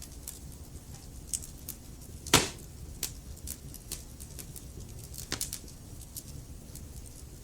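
Wood fire crackling in a fireplace: scattered small crackles throughout, with one loud pop about two and a half seconds in and a smaller one a little after five seconds, over a low steady rumble.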